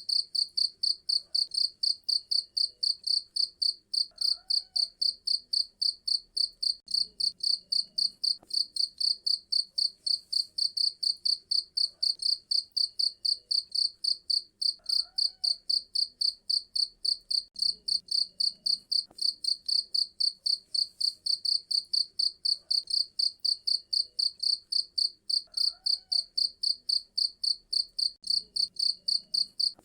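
Cricket chirping steadily in an even, high-pitched rhythm of about three chirps a second, with faint, softer calls low in the background every ten seconds or so.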